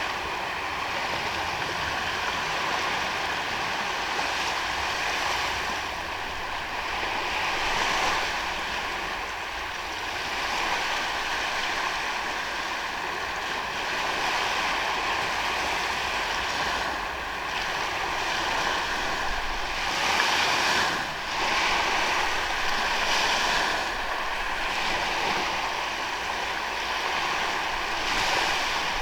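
Ocean waves washing onto a sandy beach: a continuous wash of surf that swells louder now and then, most strongly about eight seconds in and again around twenty to twenty-three seconds.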